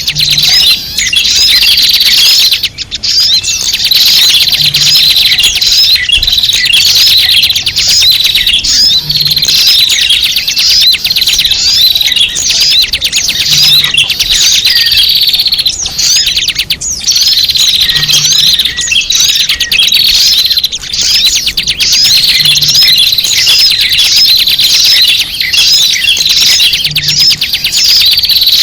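A dense chorus of many small birds chirping and twittering, loud and unbroken: a recorded lure call used to draw small birds in.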